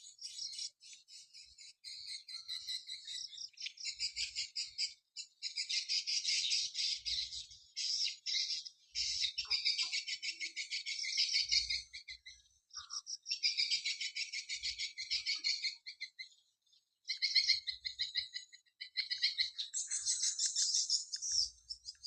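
Swiftlets twittering: dense, rapid high chirps and trills in bursts, with short pauses between them.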